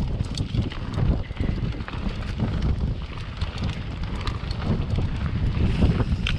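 A 2020 Transition Patrol mountain bike rolling through mud over rough trail, with wind buffeting the microphone in a steady rumble and many small rattles and clicks from the tyres and bike.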